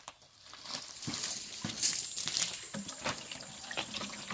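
Water running and splashing into a 5-gallon plastic bucket, growing louder about a second in, with scattered light knocks.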